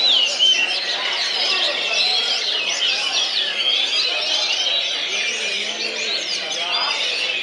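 Many caged songbirds singing at once, a dense, steady tangle of quick overlapping chirps and whistles, with a murmur of voices underneath.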